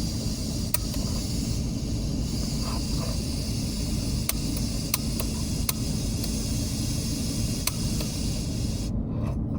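Steady low rumble and hiss of a car running with its heater blowing, heard from inside the cabin, with a few faint clicks scattered through it.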